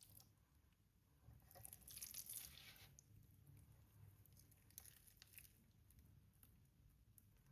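Faint kitchen food-preparation handling noise over a quiet background: a short rustling, tearing-like noise about a second and a half in, then scattered light clicks and taps.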